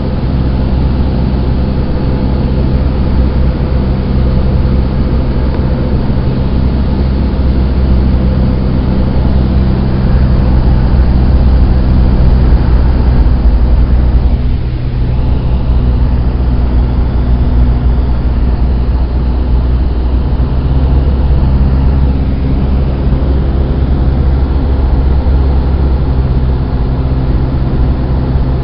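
Cessna 172's four-cylinder piston engine and propeller droning steadily in cruise, heard from inside the cabin, with a brief dip in the sound about halfway through.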